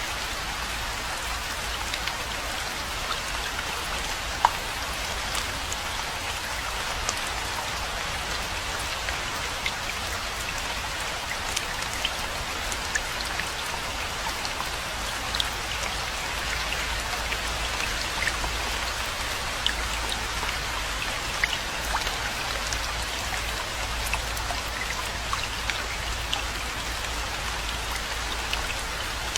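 Steady rainfall, an even hiss with many single drops ticking close by, one sharper drop about four seconds in.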